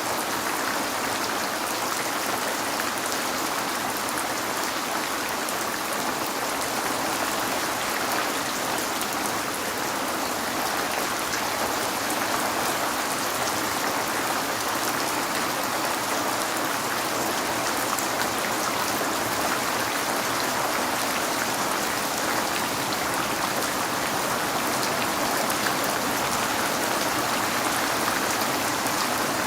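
Steady rain pattering on a window, an even hiss of many small drop impacts.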